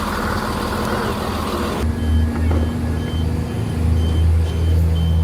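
A road vehicle running with a steady low hum; from about two seconds in, a short high beep repeats about twice a second, like a warning beeper.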